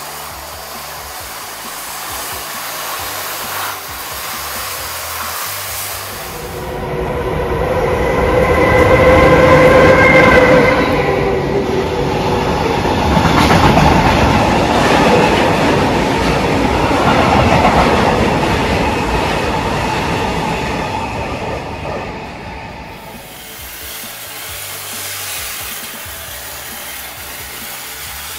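Freight train of tank wagons passing at speed, the wagons rumbling and wheels clacking on the rails, building up about seven seconds in and dying away about twenty-two seconds in. A held pitched tone sounds near the start of the pass.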